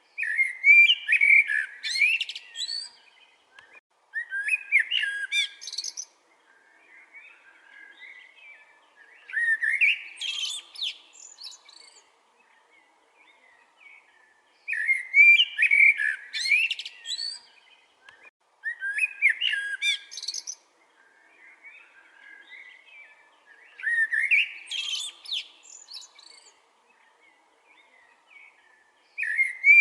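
Chopi blackbird singing: a loud phrase of whistled, sliding notes about every four to five seconds, with softer notes in between.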